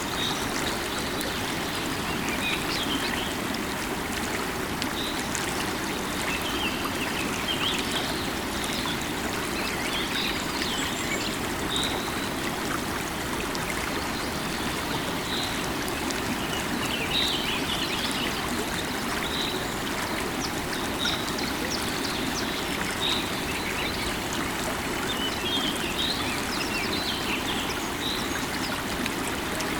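Steady rush of a flowing river, with birds calling over it: one short high note repeats about every two seconds, among scattered quick chirps.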